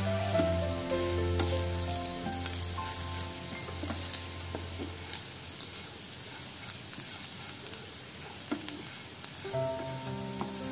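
Dry coconut slices and onion sizzling as they brown in a nonstick frying pan, stirred with a wooden spatula that scrapes and taps now and then. Soft background music plays in the first half and returns near the end.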